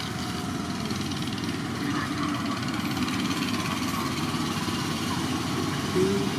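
An engine running steadily at idle, with a fine even pulsing, and a brief louder sound near the end.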